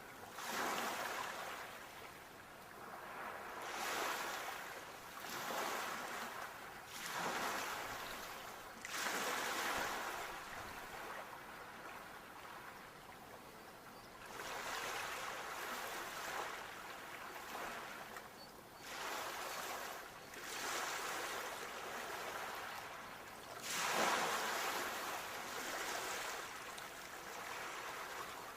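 Sea waves washing onto the shore one after another, each a swelling hiss of surf that fades out, every two to three seconds, with a calmer stretch in the middle.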